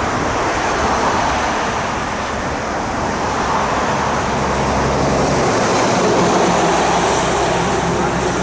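Jet airliner's engines on a landing, a steady loud rush with a low hum underneath, swelling a little past the middle and then easing.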